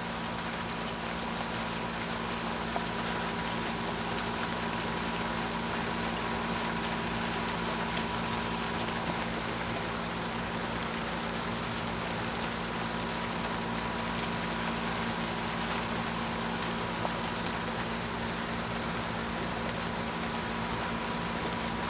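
Steady heavy rain falling, an even hiss with a few sharp drip ticks, over a constant low mechanical hum.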